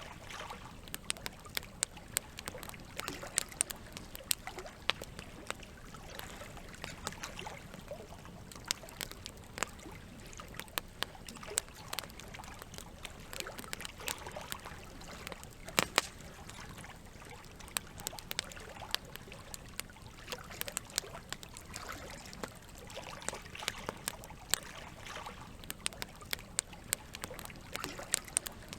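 Wood fire crackling, with frequent irregular sharp pops, over a steady trickle of running water.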